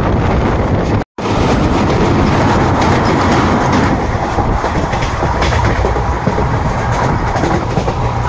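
Indian Railways passenger coach running at speed, heard from its open doorway: a steady loud rumble and clatter of the wheels on the rails with the rush of air. The sound cuts out for an instant about a second in.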